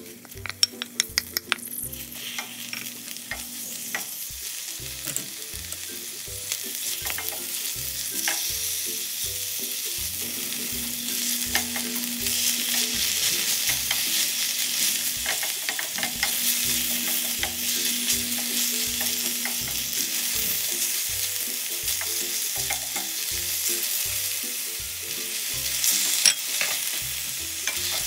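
Night-blooming cereus flower petals sizzling as they are stir-fried in hot oil in a pan. A cluster of sharp clicks comes in the first couple of seconds, and the sizzle grows louder over the first several seconds, then holds steady.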